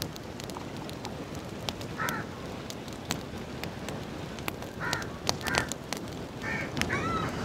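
Birds calling: one short harsh call about two seconds in, then four more in quick succession near the end, over light crackling from a charcoal fire.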